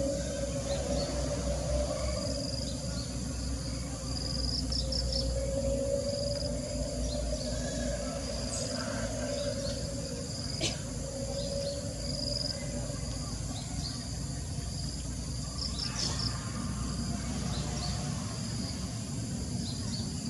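Outdoor insect chorus: steady high trilling with a slowly wavering lower drone, and short high chirps in little clusters scattered throughout.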